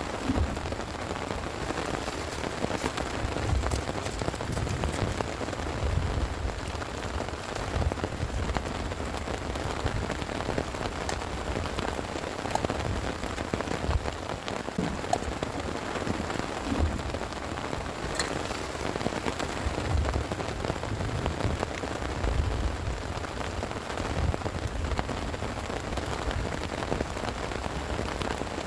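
Steady heavy rain, with many individual drops ticking sharply close by and a low rumble underneath that swells and fades every few seconds.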